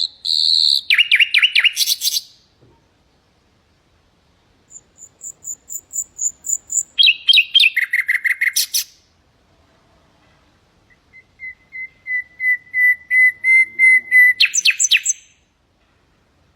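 Nightingale singing three song phrases with pauses between them. A phrase opens with a series of high repeated pips, and a long run of the same whistled note repeated about four times a second grows louder before breaking into a rapid, complex flourish.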